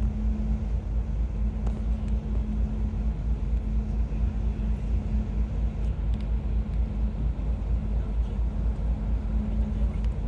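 Steady low rumble with a constant hum from a large ship's engines and machinery, its deepest part pulsing quickly and evenly.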